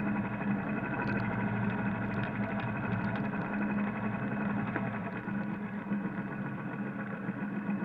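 Royal Enfield Electra motorcycle's single-cylinder engine running steadily at low revs.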